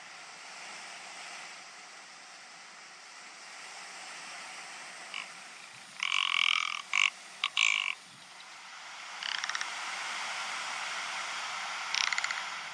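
Ptarmigan calling with dry, rattling croaks. The loudest is a run of harsh croaks between about six and eight seconds in, with shorter rattles near the end, over a steady hiss.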